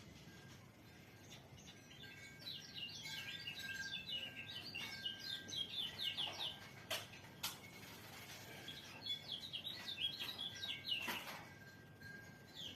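White-eye (pleci) singing: two spells of rapid, high twittering song, each a few seconds long, with a couple of sharp clicks in the pause between them.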